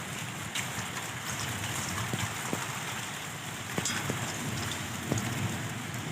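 Heavy rain falling steadily, with scattered sharp taps of drops striking a surface close by.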